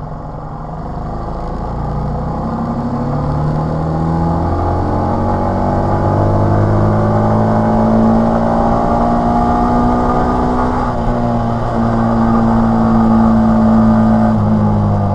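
TVS XL 100 moped's single-cylinder four-stroke engine running under way. Its pitch rises over the first several seconds as it gathers speed, then holds fairly steady.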